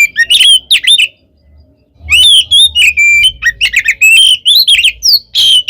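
Oriental magpie-robin (kacer) singing a loud, fast, varied song of slurred whistles, sweeping notes and harsh chattering, breaking off briefly about a second in and then running on without pause. It is the aggressive fighting song of a male.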